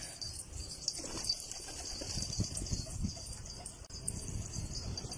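Domestic pigeons cooing in a pigeon loft, soft low calls repeating.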